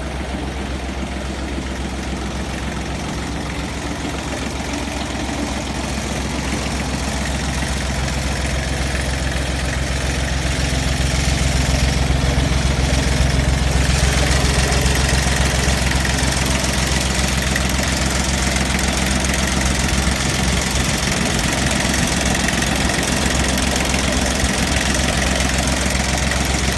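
Yanmar F16D mini tractor's three-cylinder diesel engine running steadily. It grows louder over the first dozen seconds and sounds brighter from about halfway through.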